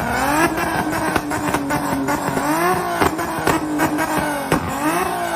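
Honda Civic EG hatchback's engine being revved over and over, the pitch climbing and dropping several times, with sharp pops scattered through it.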